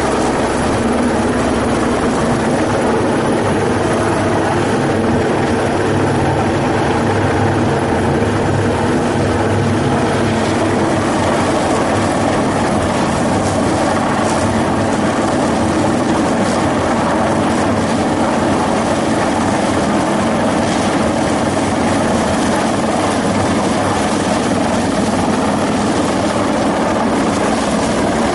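Helicopter running steadily, its engine and rotor making a constant loud drone with no change in pitch or level.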